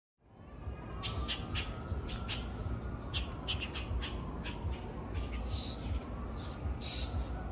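Birds squawking and calling in many short, sharp notes, some gliding up and down, over a steady low rumble.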